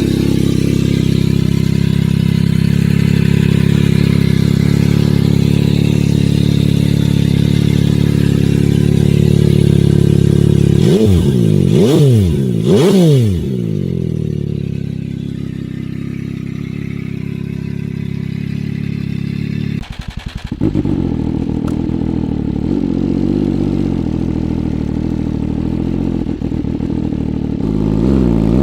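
MV Agusta 798cc inline three-cylinder motorcycle engine idling through its exhaust, blipped twice in quick succession about halfway through, then settling back to idle. After a short break the idle carries on with a different note, and a rev starts rising at the very end.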